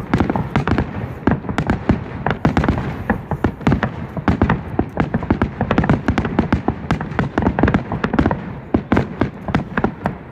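Fireworks going off in a dense barrage: many sharp bursts and crackles overlapping, several a second, with no pause.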